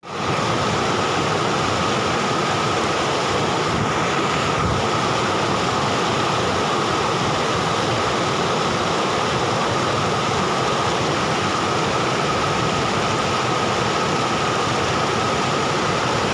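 Steady rushing water, an even wash of noise with no swells or breaks, fading in at the very start.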